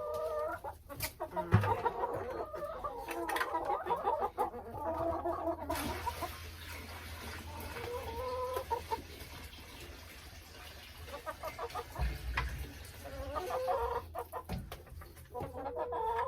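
A flock of hens clucking, a busy bout of overlapping calls in the first few seconds, thinner calls in the middle, and another bout near the end.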